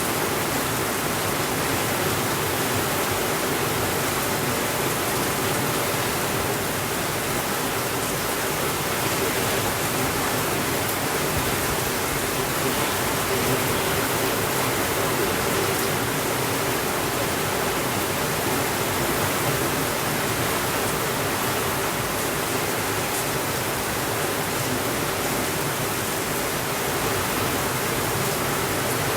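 Steady rainfall, an even, unbroken hiss of rain with no changes in level.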